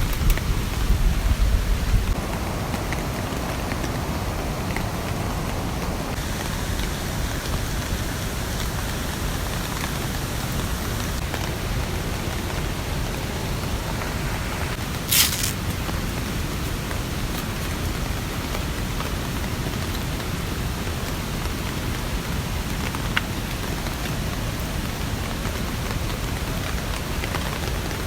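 Steady rain falling, an even hiss of drops, with a single sharp click about fifteen seconds in.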